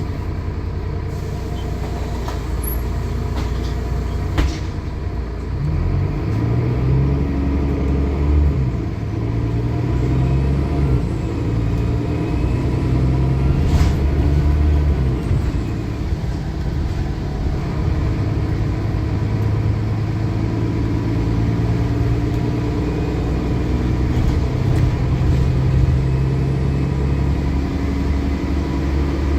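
Diesel bus engine pulling away and accelerating, its note rising and then dropping back several times as it works through the gears, with a faint high turbocharger whistle over it. Two sharp knocks stand out, one about four seconds in and one near the middle.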